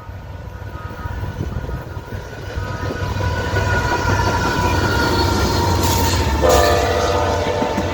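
Train passing with a low rumble that grows louder, and its locomotive horn sounding, with a loud horn blast starting about six and a half seconds in.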